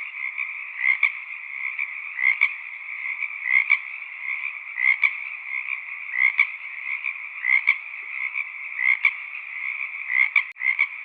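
Frog chorus: a steady trilling hum with louder double croaks recurring about every second and a third. The sound briefly cuts out near the end.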